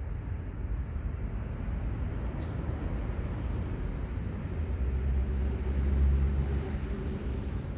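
Low engine rumble of a passing vehicle, swelling to its loudest about five to six and a half seconds in, then easing.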